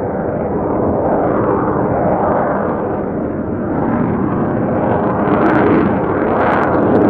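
Jet noise from the F-22 Raptor's two Pratt & Whitney F119 turbofans during a slow, high-angle pedal turn. It is a loud, steady rumbling roar that swells and eases, with sharp crackles in the last couple of seconds.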